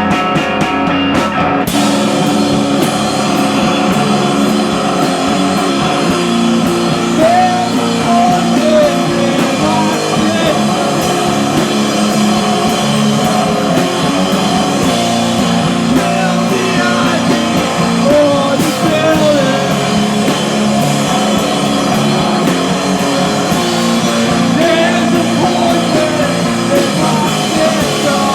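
Live rock band playing loudly: electric guitar and drum kit, with the drums coming in about two seconds in.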